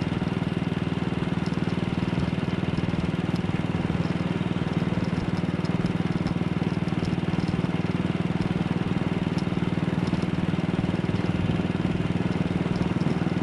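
AJS Model 8 motorcycle's 350 cc single-cylinder four-stroke engine running steadily under way, at an even speed with no change in pitch.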